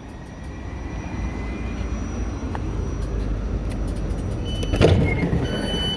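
Electric passenger train running into the platform, its low rumble growing steadily louder. Near the end, repeated high electronic beeps start.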